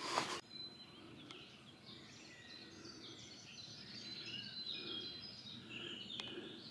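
Songbirds chirping and singing faintly, many short, quick notes overlapping, after a brief burst of noise at the very start.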